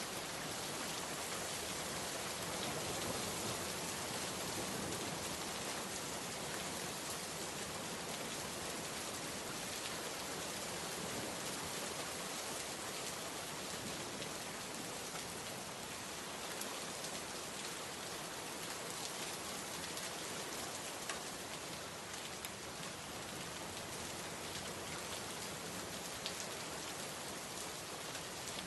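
Steady heavy rain falling and pattering on surfaces, a dense even hiss with scattered sharper drop ticks.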